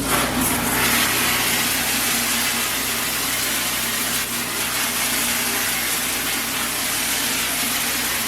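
A steady, loud hiss of spraying that starts abruptly, over a low steady machine hum.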